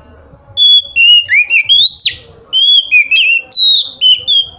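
Oriental magpie-robin (kacer) singing loud, clear whistled phrases with quick rising and falling glides, in two runs broken by a short pause near the middle.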